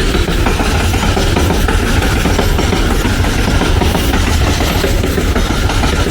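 A train passing close by: a steady, loud rumble with wheels clattering on the rails.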